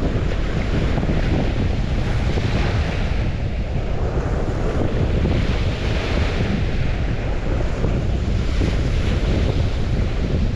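Waves washing onto a shore, the hiss swelling and fading about every three seconds, with wind buffeting the microphone as a steady deep rumble.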